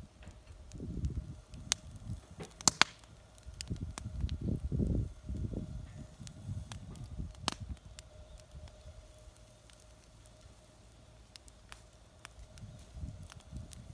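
Wood fire burning in a homemade folding fire stand, giving a few sharp pops (a close pair about three seconds in and another about seven and a half seconds in), with uneven low rumbling.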